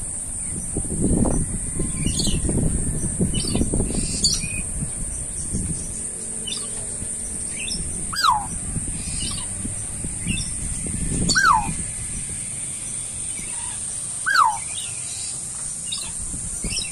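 Birds calling: scattered short high chirps and three louder calls that fall in pitch, about three seconds apart, over a steady high-pitched hiss.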